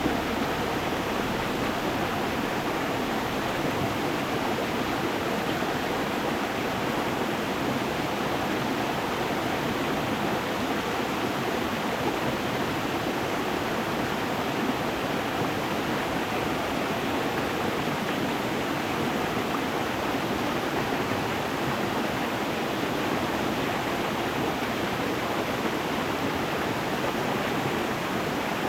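Stream water running over stones: a steady, even rush with no change in level.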